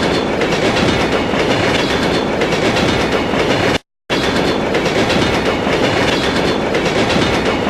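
Bachmann model Thomas locomotive running along track: a steady rush of motor and wheel noise. It cuts out to silence for a moment about four seconds in, then carries on.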